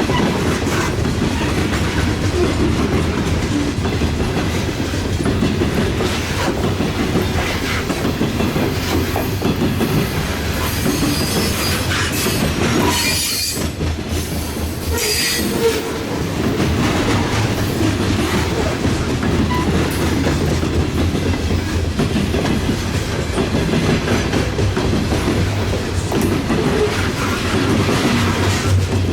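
Train cars rolling past with a steady low rumble and clickety-clack of wheels over rail joints. In the middle, the wheels squeal in a high pitch for several seconds.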